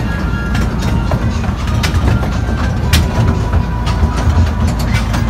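Small ride train's carriage running along the track, heard from inside the carriage: a steady low rumble with irregular clicks of the wheels over the rail joints.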